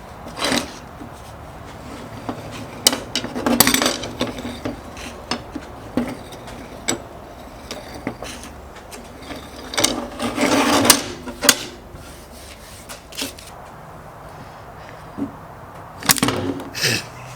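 Workshop handling sounds from restoring an antique dehorner: scattered clicks and knocks of tool parts being handled, with short scraping or rubbing strokes, over a faint steady low hum.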